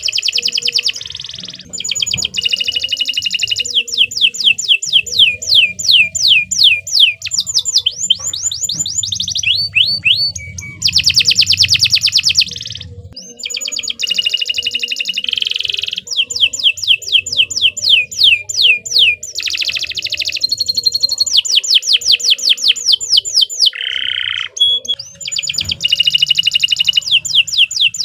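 Domestic canary singing a long, continuous song: rapid trills of repeated falling notes, about eight a second, switching from one trill to another every second or two, with short breaks near the middle and a little before the end.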